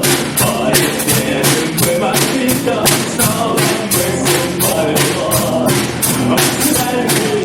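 Live rock band playing, the drum kit keeping a steady fast beat of about three to four strokes a second under sustained instruments.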